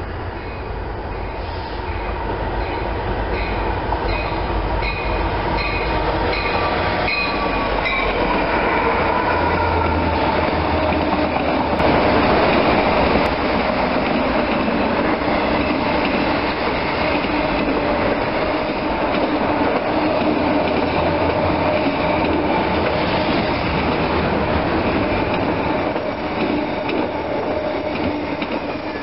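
Union Pacific freight train passing at speed: the locomotive's bell rings about one and a half times a second and drops in pitch as the engine goes by, then a long line of autorack cars rolls past with a steady wheel rumble, clatter and a held squeal from the wheels.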